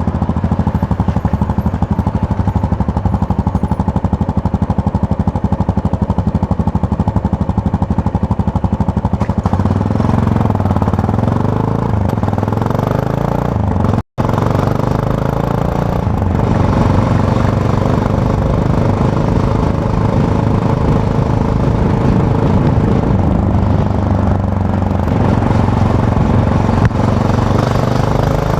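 Yamaha MT-03's parallel-twin engine running under way, heard from the rider's seat. It holds a steady note at first, then from about ten seconds in the revs rise and fall repeatedly as the throttle and gears change; the sound cuts out for an instant about halfway through.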